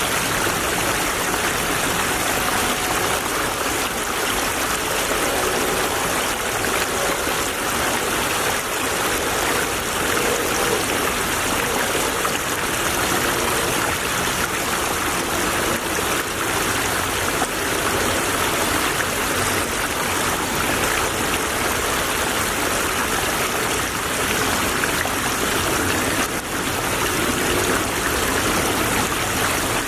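A small stream babbling and trickling steadily over stones, a continuous rush of running water.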